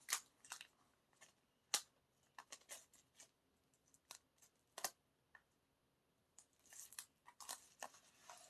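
Faint scattered clicks and taps of an album's packaging being handled, with denser rustling of paper and cardboard near the end.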